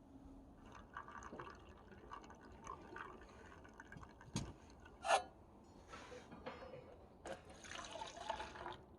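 Liquid pouring and dripping, with small handling noises and two sharp knocks a little past the middle.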